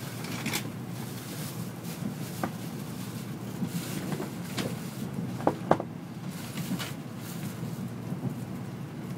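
Steady low rumble of a Tokaido Shinkansen train running, heard from inside the passenger cabin, with scattered short clicks and knocks; the two loudest come close together about five and a half seconds in.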